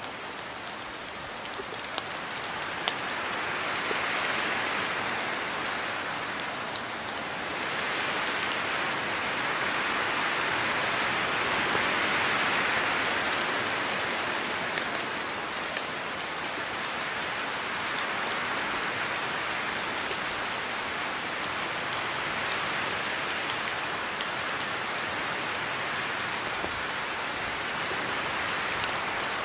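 Steady rain falling, a dense hiss that swells a little twice and eases again, with scattered sharp ticks of single drops hitting close by.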